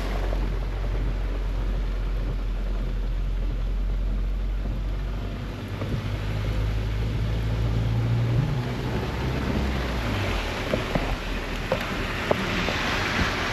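A heavy truck's diesel engine droning low under wind and rain noise. The drone rises in pitch about two-thirds through, then fades away. Rain noise then grows, with a few sharp drop ticks near the end.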